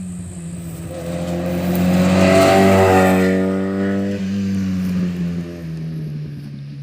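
Rally car passing at speed on a stage. The engine note holds fairly steady and grows louder to a peak about two and a half seconds in, then drops slightly in pitch and fades as the car goes away.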